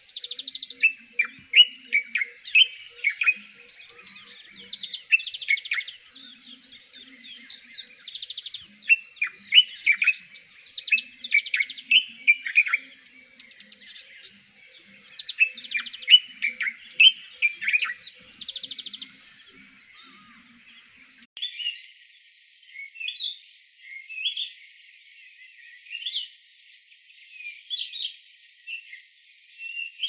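A dense chorus of songbirds singing and chirping, with many short calls and quick trills overlapping. About two-thirds of the way through, the sound changes abruptly to sparser bird calls over a steady high-pitched whine and hiss.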